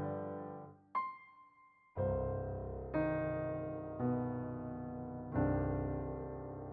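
Background piano music: a single high note about a second in, then chords struck roughly once a second, each left to ring and fade.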